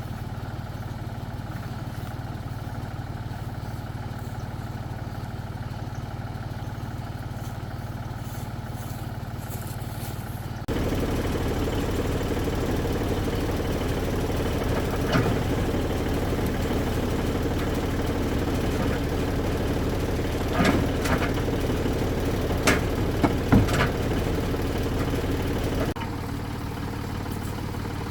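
Tractor engine running steadily. It gets abruptly louder about a third of the way in and drops back near the end, and a few short clanks and knocks come in the louder stretch.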